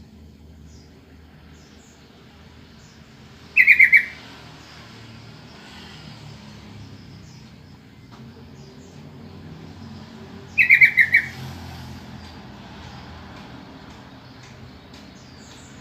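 Yellow-vented bulbul (trucukan) calling: two short bursts of four or five quick, bright notes, about seven seconds apart. Faint chirps of other birds and a low background rumble run underneath.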